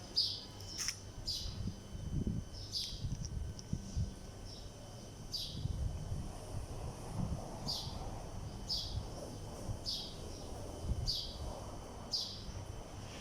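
Pet parrot giving short, high chirps that each fall in pitch, about a dozen of them roughly a second apart, over low bumps and rustling.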